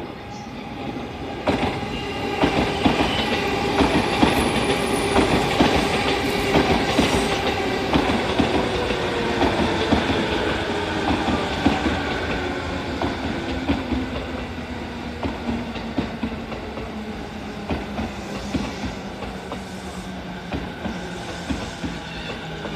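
JR commuter electric train pulling into a platform. Its motor whine falls steadily in pitch as it brakes, and the wheels clatter over rail joints.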